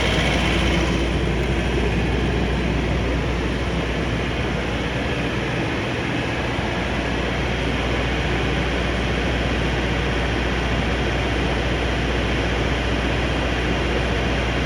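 John Deere diesel engine of a 48 kW Generac standby generator running steadily, with a deep low hum under the engine noise.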